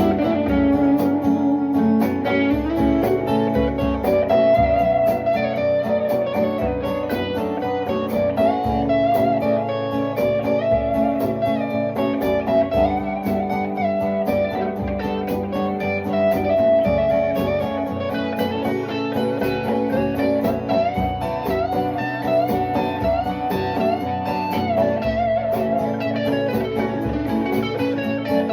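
Guitar music: an instrumental stretch of a song, with held notes and a melody line over steady chords and no singing.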